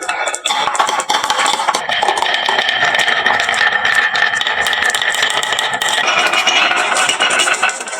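Many marbles clattering and rolling down a wooden HABA marble-run slope: a dense, continuous stream of clicks and rattles that thickens about half a second in.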